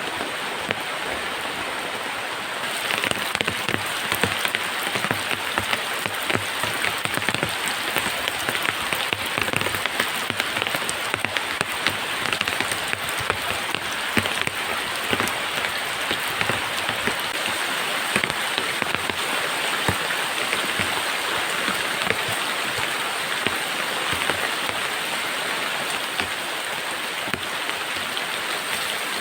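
Heavy rain falling, with a dense scatter of drops striking a surface close by; it grows louder about three seconds in.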